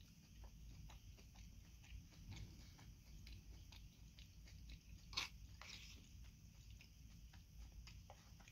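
Faint, close-up chewing of a warm salad with a person's mouth: soft, wet mouth clicks and smacks, with one sharper, louder click about five seconds in.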